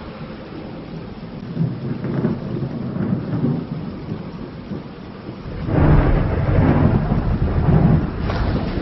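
Thunderstorm: steady rain with thunder, and a long, loud roll of deep thunder building a little past halfway and ending in a sharper crack near the end.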